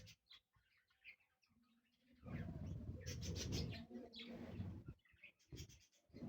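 Budgerigars chirping and chattering in a flock: faint at first, then a louder stretch of chirping over a low rumble about two seconds in, with a few more chirps near the end.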